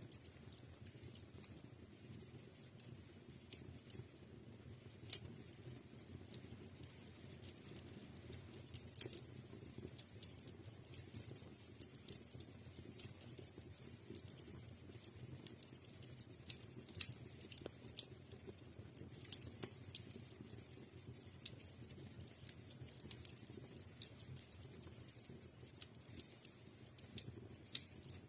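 Wood fire in a fireplace crackling: irregular sharp pops and snaps, a few louder ones, over a faint steady low rush of the flames.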